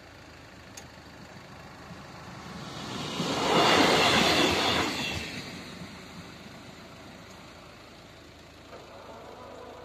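A two-car regional passenger train runs past at the level crossing. Its rush of wheel and running noise swells up about three seconds in, is loud for a second or two, and fades away quickly.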